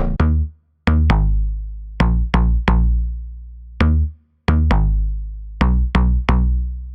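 Synth bell preset from Xfer Serum 2 playing a melody of bright struck notes that ring and fade quickly, over a deep sustained bass. The music breaks off briefly twice.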